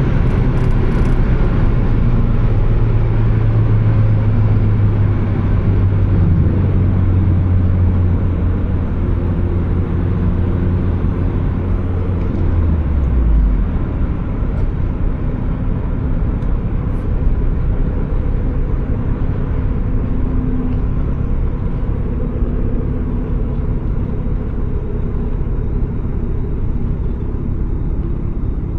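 Turbocharged Mazda Miata's four-cylinder engine on the move: its steady drone falls slowly in pitch for about thirteen seconds as the car slows, then drops away abruptly, leaving a lower rumble of engine and road noise.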